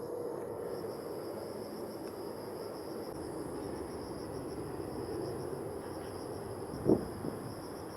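Steady outdoor background rumble with a continuous high, pulsing insect drone over it, and a single short sharp knock about seven seconds in.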